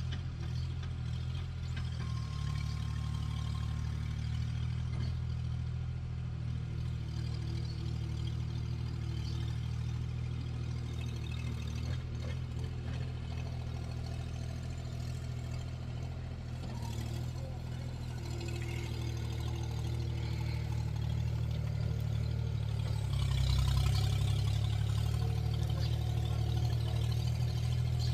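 Skid steer loader's engine running steadily, growing louder for the last few seconds.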